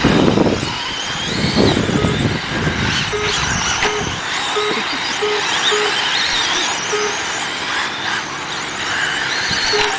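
Radio-controlled sprint cars racing laps, their motors whining and rising and falling in pitch as they pass. Short beeps sound at irregular intervals, and a low rumble fills the first four seconds, then drops away.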